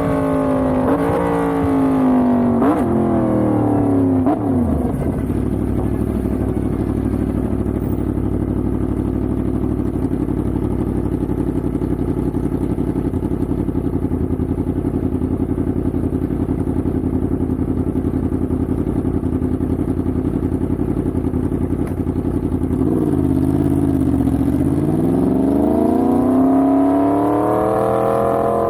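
Yamaha MT-10's crossplane inline-four engine slowing with falling revs and two short throttle blips, then idling steadily for most of the time. Near the end it pulls away with revs rising.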